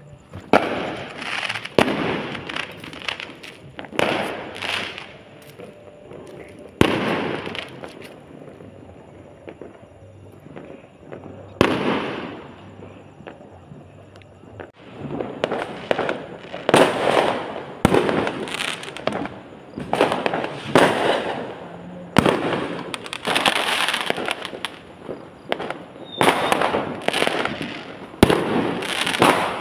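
Fireworks going off: repeated sharp bangs, each trailing off in a crackling hiss, thinning out in the middle and coming thick and fast from about halfway on.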